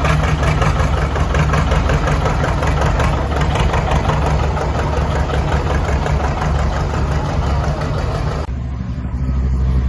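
Vintage farm tractor engines running with a loud, steady low note and a rapid even firing beat. About eight and a half seconds in, the higher sounds drop away suddenly, leaving a duller engine note.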